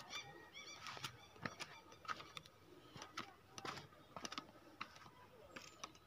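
Faint outdoor sound: a bird's quick series of repeated chirps in the first second, then scattered light clicks and crackles, with a faint steady high tone underneath.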